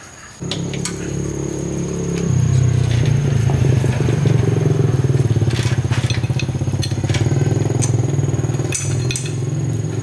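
Motorcycle engine starting about half a second in and running, shifting to a lower, louder, steady beat about two seconds in.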